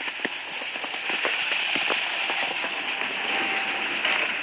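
Wind-driven snow hitting close by: a steady crackling hiss sprinkled with many small ticks.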